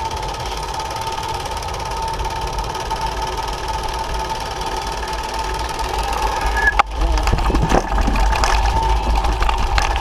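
Small engine of a motorized bicycle running steadily under way, with a fast buzzing drone. About seven seconds in there is a sharp knock, after which the engine and a low rumble get louder.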